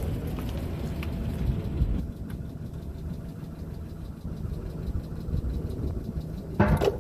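Vehicle engine running at low revs with a steady low rumble, heavier for the first couple of seconds and then lighter, and a short loud noise near the end.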